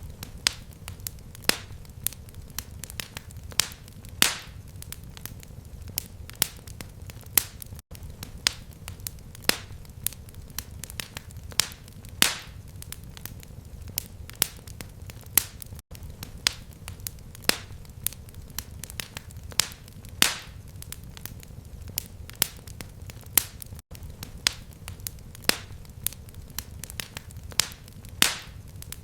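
Fireplace fire crackling: sharp pops about one to two a second over a low rumble. It is a short recording looped every eight seconds, with a brief dropout at each join.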